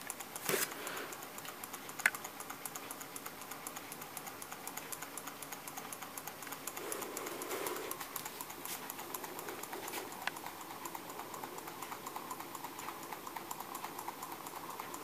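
Small low-temperature Stirling engine running on hot water, its piston and crank linkage making a rapid, even clicking. Two louder knocks come about half a second and two seconds in.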